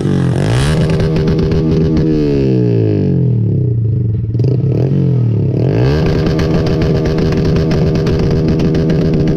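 A vehicle engine revving up and easing off twice, its pitch rising and then falling, with a sustained high-revving stretch in the second half.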